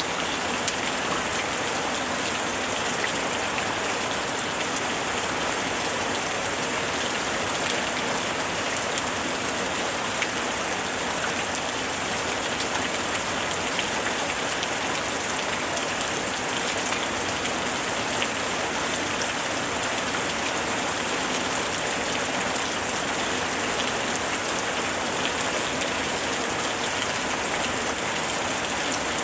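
Steady heavy rain falling on surfaces: an even hiss with many small drop ticks throughout.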